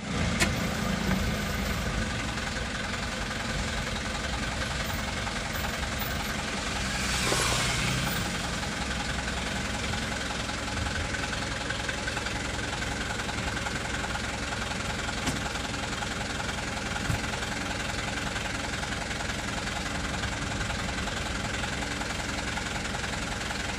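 A motor vehicle engine running steadily at low revs, with a brief louder hissing swell about seven seconds in.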